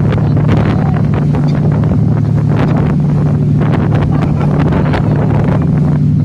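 Ferry's engine running with a steady low hum, with wind buffeting the microphone.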